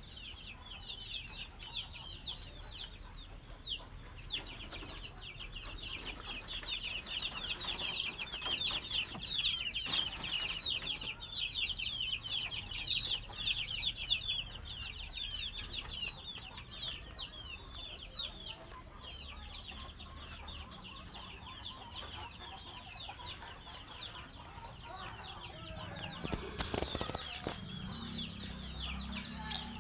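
Young poultry peeping: a dense, unbroken chorus of many short, high, falling chirps from a flock. Near the end there is a brief knock and some low rumble.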